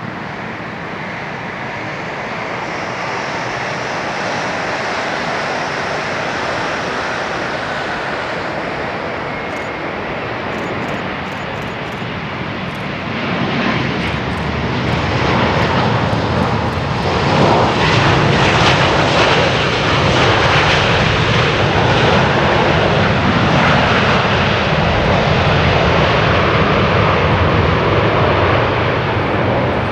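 Airbus A350-900 jet with Rolls-Royce Trent XWB engines passing on its landing, its engine noise building steadily and then growing much louder about halfway through, where it stays as a loud, even rushing noise.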